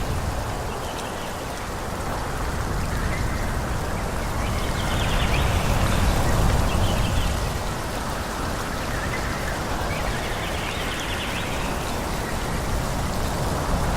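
Forest ambience: a steady rushing noise, as wind through trees gives, that swells about five seconds in and eases again around eight seconds.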